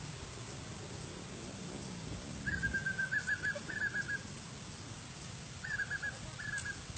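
A bird calling in two quick runs of short whistled notes at one pitch: the first about two and a half seconds in, the second near the end.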